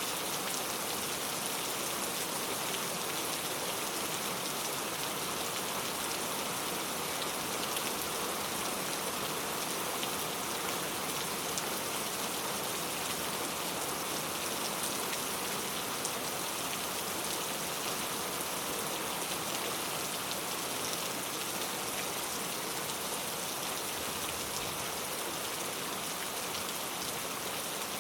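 Steady rain falling, an even hiss with the fine patter of drops hitting a surface.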